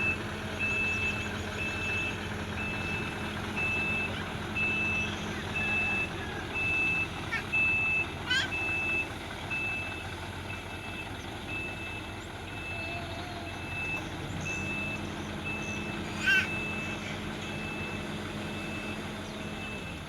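A heavy vehicle's reversing alarm beeping steadily, about one high beep a second, over a diesel engine running. Two sharp knocks break in, one about eight seconds in and a louder one near the end.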